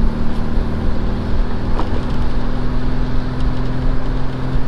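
A VW Type 3 Fastback's air-cooled flat-four engine running steadily while driving, heard from inside the cabin with road noise.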